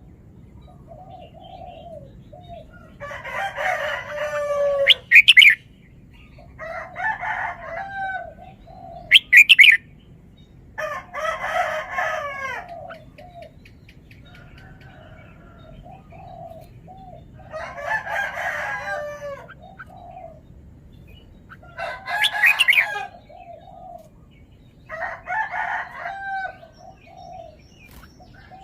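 Red-whiskered bulbul singing short, bubbling warbled phrases about every three to four seconds, with a few loud, sharp whistled notes among them.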